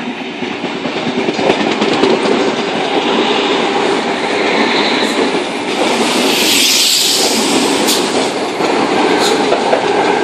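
Sydney Trains Tangara double-deck electric train passing through the station without stopping, a steady rumble of wheels on rail with a few sharp clicks and a louder rushing hiss about six to seven seconds in.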